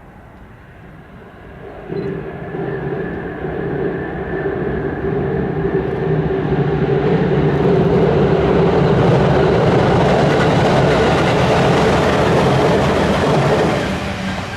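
A train approaching and running across a railway bridge. The rumble builds from about two seconds in to a loud, steady level, then drops off sharply near the end.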